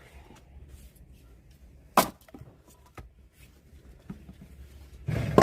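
Axe blows splitting firewood logs: a sharp crack of wood about two seconds in, and a longer crack near the end.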